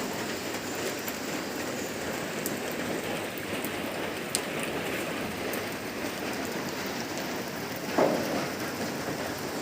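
Heavy rain falling steadily, with scattered drop ticks and one brief louder knock near the end.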